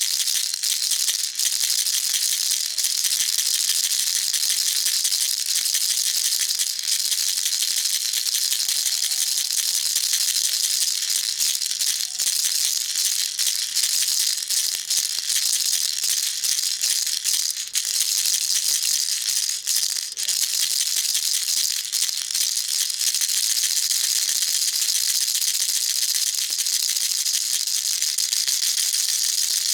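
Baby rattle shaken continuously, a dense, steady, high-pitched rattling of small beads inside it, with no pauses.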